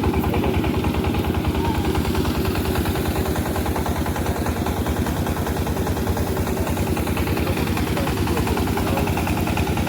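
A vehicle engine running steadily and close by, with a fast, even pulse.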